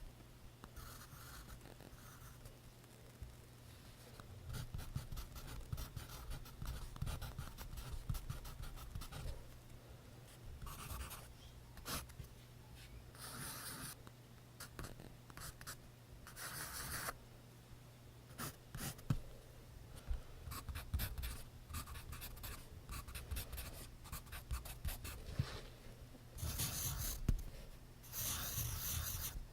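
Pencil writing on notebook paper: quick, scratchy strokes in irregular runs, with a few longer, louder stretches, over a faint steady low hum.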